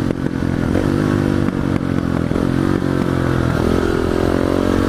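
Dual-sport motorcycle engine running as it is ridden, its pitch stepping up and down repeatedly with throttle changes.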